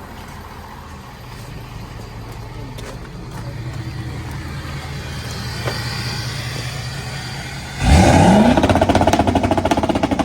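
A vehicle engine running with a low steady hum that slowly grows louder; about eight seconds in it suddenly gets much louder, rising quickly in pitch as it revs up, then keeps running loudly.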